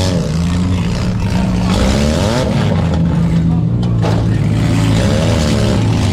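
Several four-cylinder demolition derby cars running, their engines revving up and down over a steady low engine drone, with a short sharp knock about four seconds in.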